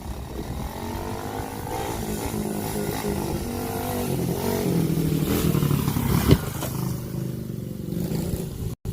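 Small dirt bike engine revving up and running close by, growing louder and higher from about a second in and easing off after about seven seconds, with one sharp knock about six seconds in.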